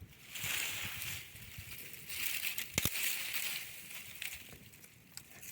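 Crumpling, crushing noise in two swells of about a second each, with a sharp snap between them about three seconds in.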